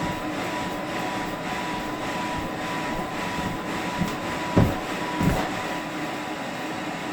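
Three soft, low thumps from someone jumping indoors, about four to five seconds in, the second one the loudest, over a steady rumbling background hum with a faint high tone.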